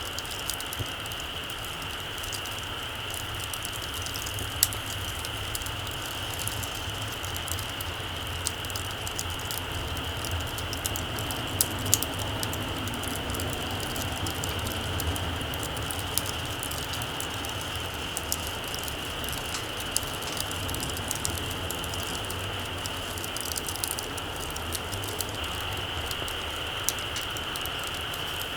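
Small campfire burning low, with sparse sharp crackles and pops from the embers over a steady high-pitched drone and a low rumble.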